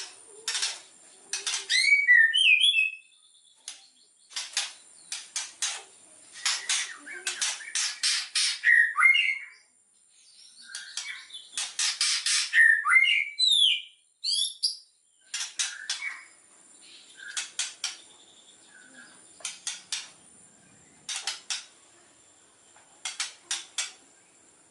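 White-rumped shama (murai batu) song: quick runs of sharp clicking, rattling notes mixed with short sliding whistles, in bursts with brief pauses between them. A faint steady high whine sits behind it.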